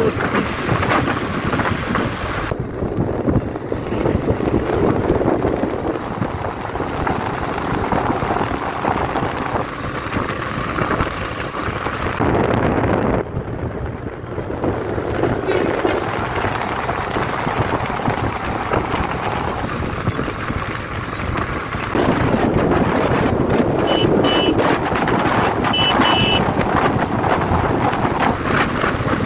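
Wind buffeting a motorcyclist's microphone at highway speed, over the running single-cylinder engine of a Royal Enfield Classic 350 and road noise. Short horn toots sound twice near the end.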